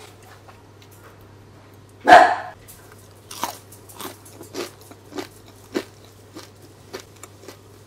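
A loud crunchy bite into a cornflake-crusted oven-baked chicken nugget about two seconds in, then steady crunchy chewing, a little under two crunches a second. The crunch comes from the crisp, unfried cornflake coating.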